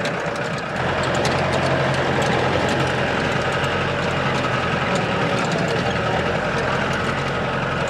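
Off-road jeep's engine running steadily as it climbs a rough mountain track, heard from inside the vehicle, with a constant drone and small rattles; the engine noise is very loud. It gets a little louder about a second in.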